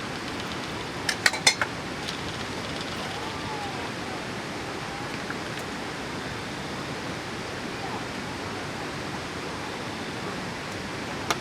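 Steady rushing background noise, with a quick run of four sharp clicks about a second in and one more click near the end.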